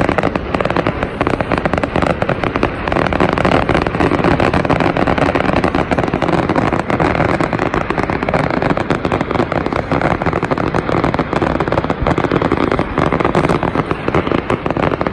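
Fireworks display: a dense, continuous barrage of bursts and crackles with no pause.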